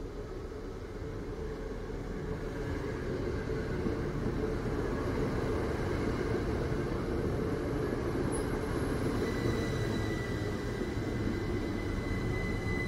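Great Western Railway Class 387 electric multiple unit running in along the platform and passing close by: a steady rumble of wheels on rail that grows louder over the first few seconds and then holds. A thin high whine comes in about nine seconds in and grows toward the end.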